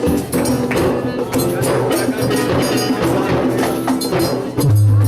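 Live band music with a steady percussion beat, heard over an amplified sound system. Near the end a loud, steady low note comes in and holds.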